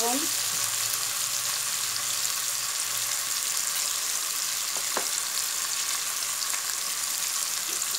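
Potatoes and sliced onions frying in mustard oil in a wok, a steady sizzle. One light click about five seconds in.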